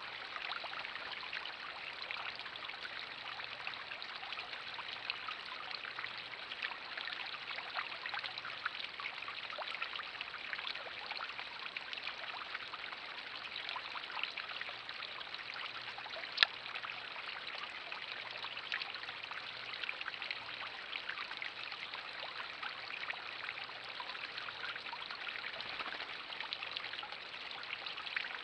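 Steady trickling of running water, with many small ticks and one sharp click a little past halfway.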